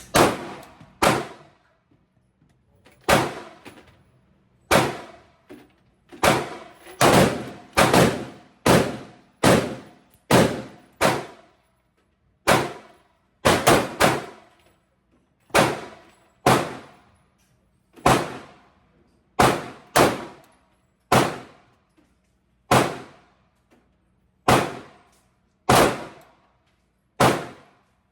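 Glock 45 9mm pistol fired shot after shot in an indoor range, about two dozen sharp cracks at an uneven pace, some in quick pairs and triples, each ringing briefly off the walls.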